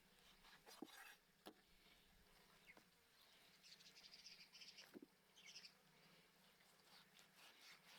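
Near silence, with a few faint clicks and some faint high chirping a little before halfway through.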